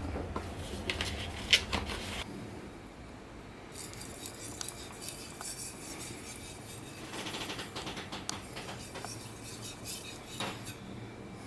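Steel knife blade clinking and scraping against hard surfaces while being sharpened, with scattered sharp clicks and one loud click about a second and a half in.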